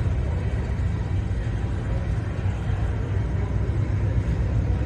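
Steady low rumble of background noise on a busy indoor car-show floor, with no distinct events.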